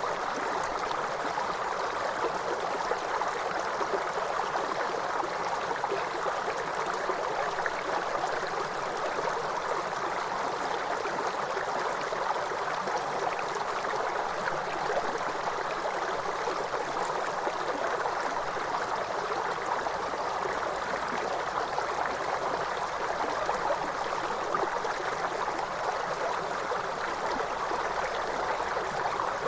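Waterfall water splashing and rushing steadily, an even, unchanging wash of sound that sits mostly in the mid range.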